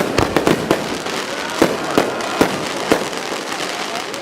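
Fireworks bursting: a quick string of sharp bangs and crackles in the first second, then fewer, spaced-out bangs over a steady crackling hiss.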